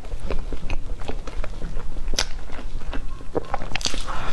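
Close-miked eating of a soft cream cake: wet chewing and mouth sounds with scattered sharp clicks, and a denser cluster of sounds near the end as a forkful of cake goes into the mouth.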